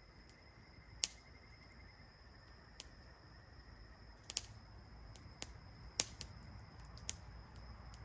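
Wood campfire crackling: a handful of sharp pops at irregular intervals over a low steady hush.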